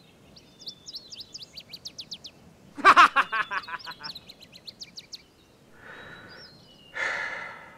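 Songbirds chirping in quick high notes, with a loud, harsh, fast chattering burst about three seconds in. Near the end come two breathy rushing sounds, the second louder.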